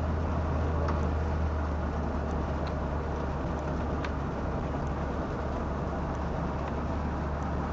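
1973 Pontiac Catalina's V8 engine running steadily, heard as an even low hum with road or engine noise over it.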